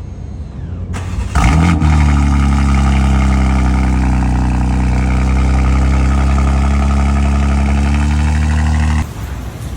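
Car engine cold start: about a second of starter cranking, then the engine catches with a sharp rev flare and settles into a loud, steady fast idle. It cuts off abruptly near the end, where a quieter engine sound takes over.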